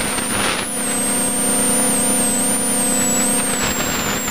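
Rally car engine running at steady revs, heard through a poorly set-up in-car intercom, with a thin high-pitched whine wavering over it. A brief hiss comes about half a second in.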